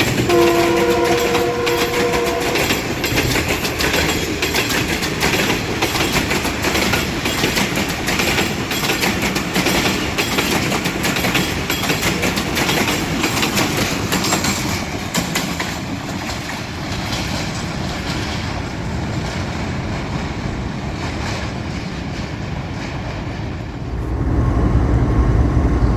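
A train horn sounds briefly at the start, then a passenger train rolls past with its wheels clattering over the rail joints, the clatter easing off about midway. A louder low rumble comes in near the end.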